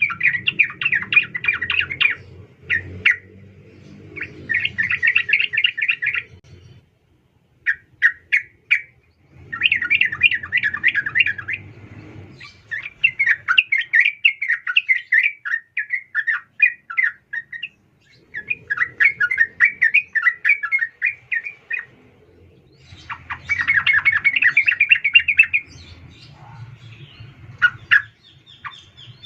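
Yellow-vented bulbul (trucukan) calling in repeated phrases of fast, chattering notes, each phrase a second or three long with short pauses between. This is a lure call presented as a female calling a male.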